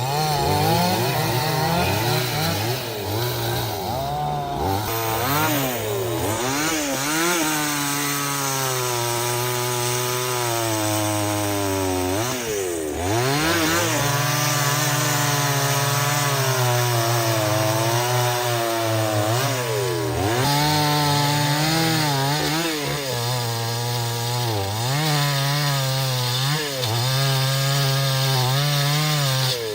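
Two-stroke chainsaw cutting through wood. Its engine pitch keeps sagging and climbing back as the chain loads up in the cut and frees again, with a couple of brief deeper dips.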